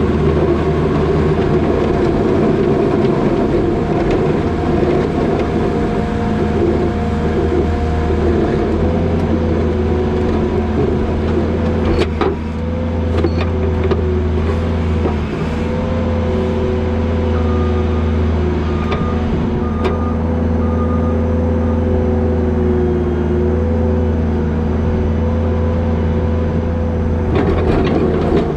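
New Holland L220 skid steer's diesel engine running steadily while pushing wet snow with a box plow, with a whine that wavers up and down in pitch as it works. A few sharp clunks come near the middle and near the end, and there is a short run of beeps partway through.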